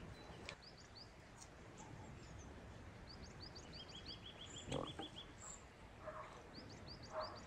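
Faint outdoor birdsong: short, high rising chirps in little runs, and a quick even trill a little past the middle. A single brief knock about five seconds in is the loudest sound.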